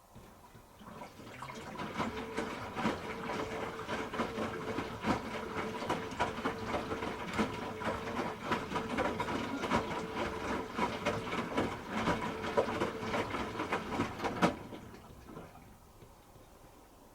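Hoover H-Wash 300 Plus washing machine turning its drum during a rinse: a steady motor hum with laundry and water sloshing and knocking inside. It builds up about a second in and stops with a click near the end.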